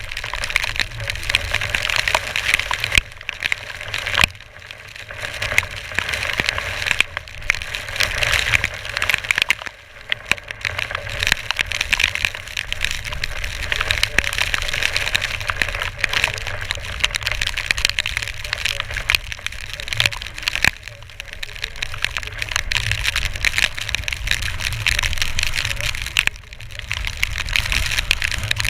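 Storm wind buffeting the microphone: a rushing hiss over a low rumble, rising and falling in gusts, with crackling throughout.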